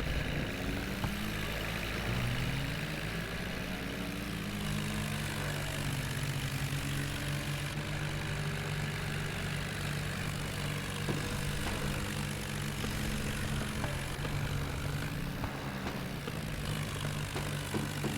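New Holland tractor's diesel engine running, its pitch shifting up and down over the first few seconds, then holding steady.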